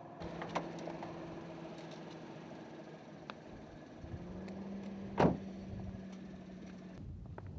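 Car engine running with a steady low hum that shifts slightly in pitch partway through and stops near the end. A single sharp knock about five seconds in is the loudest sound, with a few lighter clicks around it.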